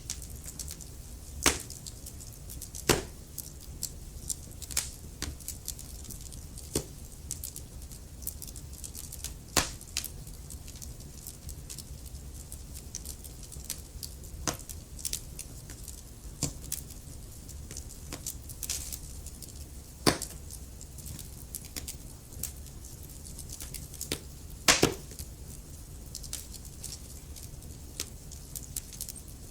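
Wood fire crackling: a steady scatter of small sharp snaps and pops, with about five louder pops.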